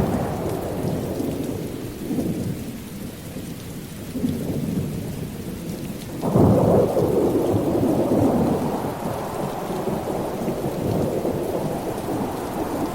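Deep rolling rumble that sets in suddenly, eases off, then surges again about six seconds in and slowly dies away, with a steady hiss under it.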